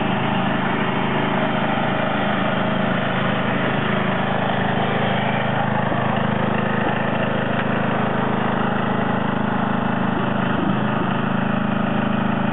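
John Deere 111 lawn tractor engine running steadily at an even pitch.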